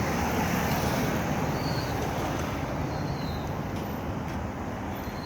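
Pickup truck running, a steady engine and vehicle noise heard from inside the cab, easing slightly in level.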